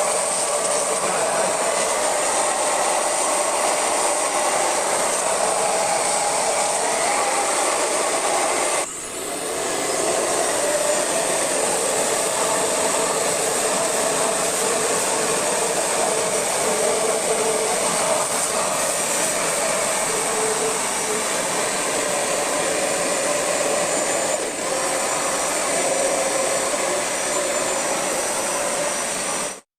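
A steady, loud motorised hiss from a cleaning machine working on an air conditioner. It stops for a moment about nine seconds in, dips briefly again later, and cuts off suddenly at the end.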